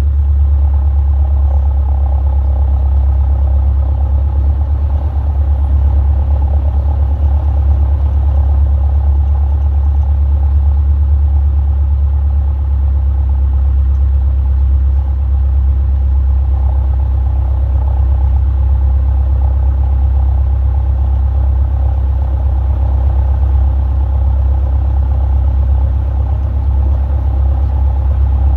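Robin DR400 light aircraft's engine and propeller running steadily at low taxi power, a constant low drone that does not change.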